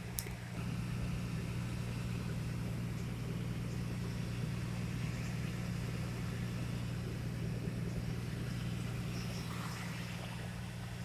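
A steady, low engine-like hum with a sharp click just after the start.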